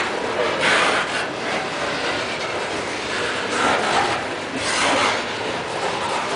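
Norfolk Southern coal hopper cars rolling past: a steady rush of steel wheels on rail that swells briefly every second or so as the wheel sets go by.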